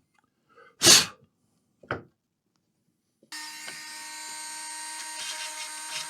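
Two short bursts of noise about a second apart, then, about three seconds in, a small high-speed rotary tool starts and runs steadily with a whine, its tone varying slightly as it grinds away burned material on a laptop motherboard.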